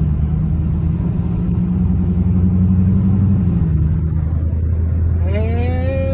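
Car engine and road noise heard from inside the cabin while creeping along in traffic: a steady low hum whose pitch drops about two-thirds of the way through. Near the end a rising, wavering tone comes up over it.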